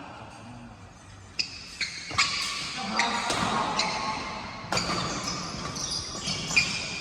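Badminton rally: a series of sharp smacks of rackets striking the shuttlecock, half a second to two seconds apart, with short high squeaks of shoes on the court floor between them.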